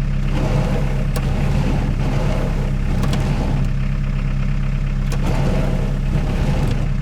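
Hyundai Porter light truck's diesel engine running with a steady low hum, with a few short sharp clicks about one, three and five seconds in.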